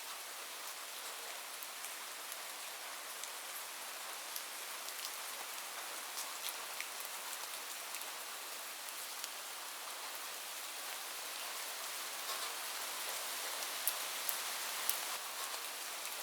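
Heavy rain falling on a roof: a steady hiss with many sharp ticks of single drops, a little heavier near the end.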